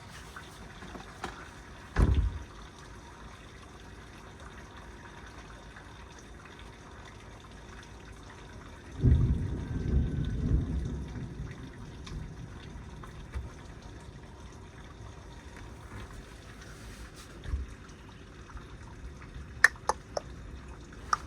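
Heavy rain falling, with water running and dripping. A low rumble rises about nine seconds in and fades over a few seconds, with a shorter one about two seconds in.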